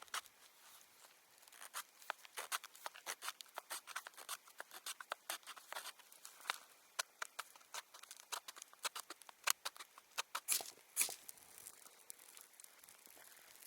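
Rapid, irregular crackling and clicking, many small sharp sounds in quick succession, thinning out and stopping near the end.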